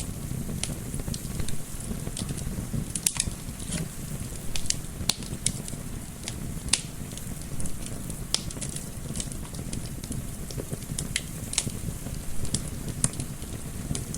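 Wood fire crackling, with frequent irregular sharp pops over a steady low rumble, blended with a soft wind layer.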